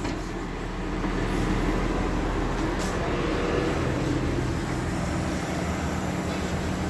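Heavy machinery running steadily, a diesel-engine-like drone with a constant low hum and no change in speed.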